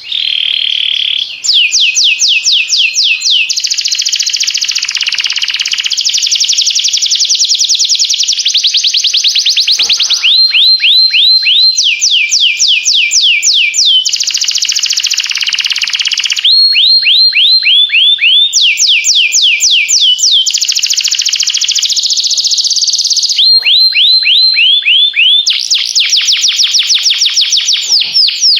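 Canary singing a loud, continuous song of rapid trills: runs of fast, high, downward-sweeping notes, each run lasting one to three seconds before switching to another pattern.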